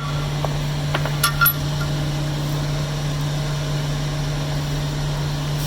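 Steady low machine hum throughout, with a few light metal clinks of brake parts, rollers and springs, being worked into place about a second in.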